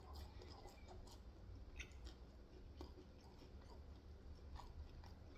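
Faint chewing and mouth clicks of someone eating saucy Korean fried chicken, with scattered small smacks over a low steady hum.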